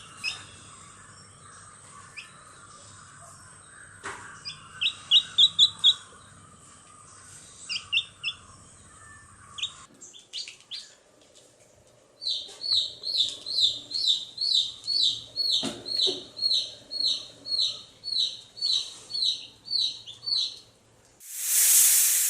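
A small bird chirping in short, high repeated notes, first in brief clusters, then in a steady run of about two to three chirps a second. A loud rushing noise comes in near the end.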